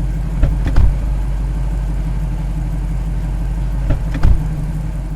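A loud, steady low rumble with two pairs of heavy thuds, one about half a second in and one about four seconds in.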